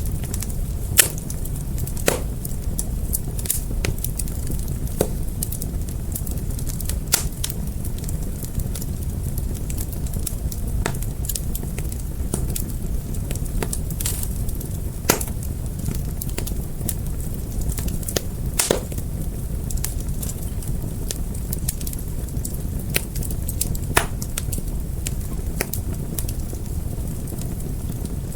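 Fire crackling: a steady low rumble of burning with frequent sharp pops and snaps, a handful of them louder than the rest.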